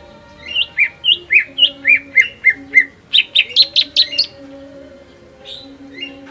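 Greater green leafbird (cucak ijo) singing: a run of loud, quick down-slurred whistled notes, about four a second, that speeds up into a faster, louder burst and stops a little past the middle, followed by a couple of scattered calls near the end.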